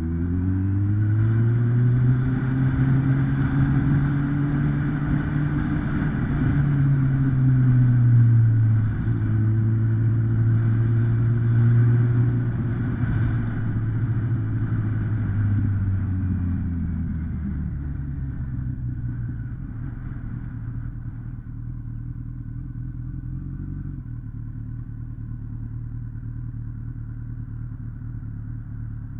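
2008 Kawasaki ZX-10R's 998 cc inline-four engine running under way. Its note holds high with a brief dip about eight seconds in, then falls away around seventeen seconds and settles to a lower, quieter steady note.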